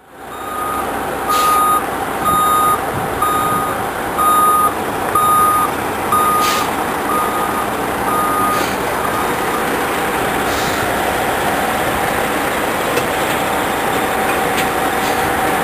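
A truck's reversing alarm beeping about once a second, some nine beeps, over the steady running of a truck engine as the truck backs up. The beeping stops a bit past halfway and the engine keeps running.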